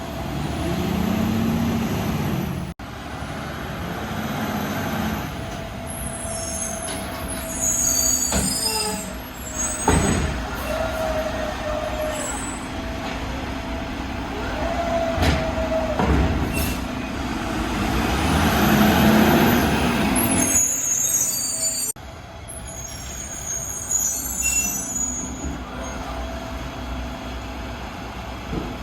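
Heil RevAmp all-electric side-loader garbage truck at work: the diesel engine runs steadily while the electric arm motors whine up and back down, with a few sharp knocks as a bin is handled and dumped.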